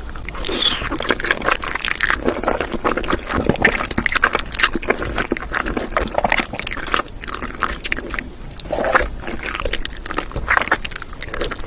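Someone eating Indomie instant noodles: wet chewing and mouth noises, a dense run of short clicks and smacks.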